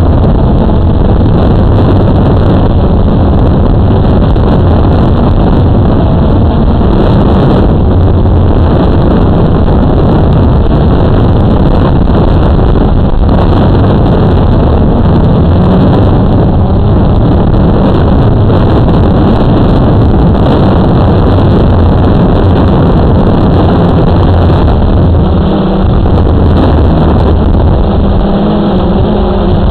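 Blade 350 QX2 quadcopter's electric motors and propellers humming under a heavy, steady rumble of wind on the microphone. Near the end, a clearer pitched motor hum comes through.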